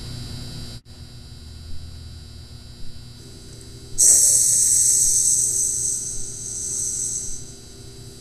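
A steady low electrical hum, then about four seconds in a loud, drawn-out hiss cuts in suddenly and fades away over three to four seconds: a soundboard hiss effect.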